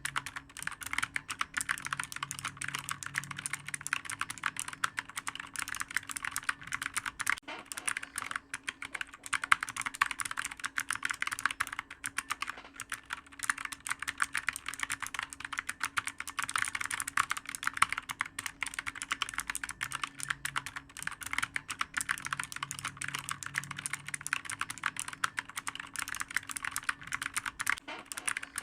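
Computer keyboard being typed on fast and without pause, its keys clicking in a dense, uneven stream.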